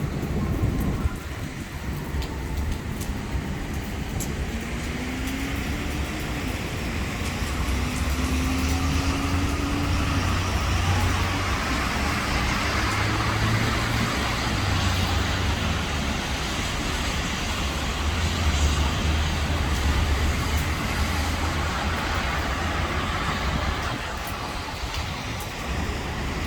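Heavy thunderstorm rain with a continuous low rumble underneath, the rushing noise swelling through the middle and easing near the end.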